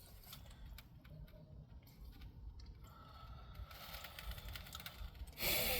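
Faint scattered small clicks and rustles, with a short hiss near the end.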